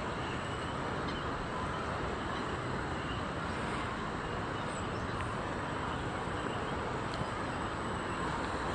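Steady outdoor background noise with no distinct events: a wash of distant city traffic.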